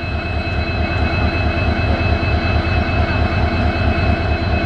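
EMD WDP4 diesel locomotive's two-stroke engine idling, a steady low throb with a constant high whine over it.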